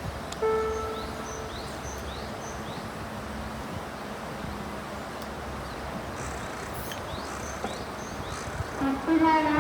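Outdoor ambience: a steady hiss of background noise, with small birds giving short, quick chirps, most of them in the first few seconds.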